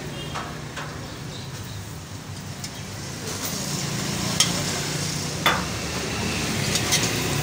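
Paratha frying and sizzling on a large flat griddle, the hiss growing fuller partway through. A metal spatula clinks sharply against the griddle a few times, over a steady low background hum.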